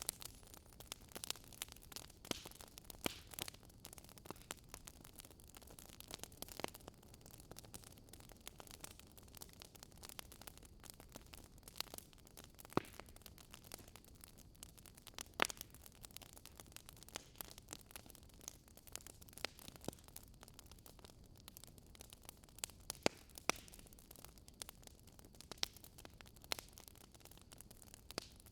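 Wood fire burning, with irregular crackles and sharp pops from the burning wood over a faint steady hiss.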